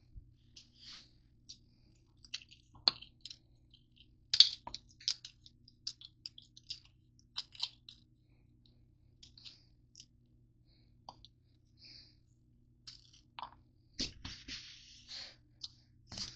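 Crunchy granola bars being handled: scattered crinkles, crunches and clicks at irregular intervals, loudest about four seconds in and busier near the end, over a faint steady low hum.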